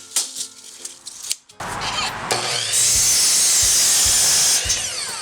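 Electric power saw: the motor spins up with a rising whine, the blade cuts through 2x4 lumber with a loud steady hiss for about two seconds, then the motor winds down with a falling whine near the end.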